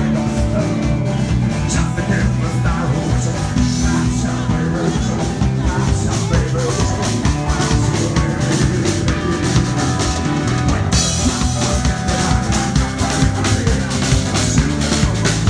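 Live band playing an upbeat country-blues instrumental passage, with a drum kit keeping a steady beat over bass and guitar.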